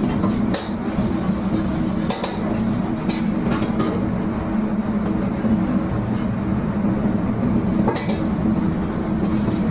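Steady low mechanical rumble with a constant hum, broken by a few short clicks and knocks.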